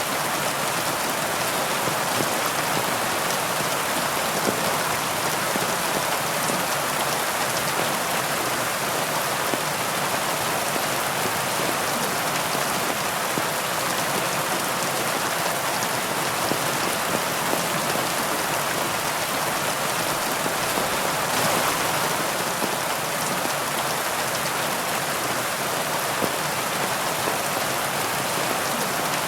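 Heavy rain falling steadily, a dense even hiss of raindrops with no let-up.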